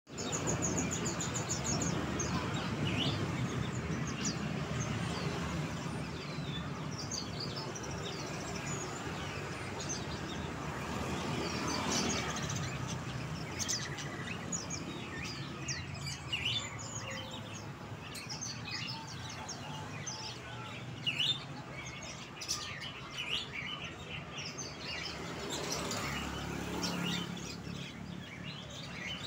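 Songbirds chirping and twittering, a steady run of short high notes over a low background rumble.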